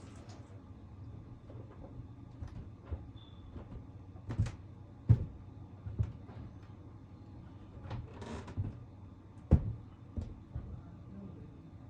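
A handful of sharp knocks and clunks of hard objects being handled and set down, the two loudest about five and nine and a half seconds in, with a brief rush of noise shortly before the second.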